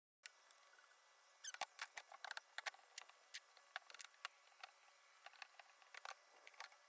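Near silence: faint hiss with many small, irregular clicks and ticks, a few louder ones about two seconds in.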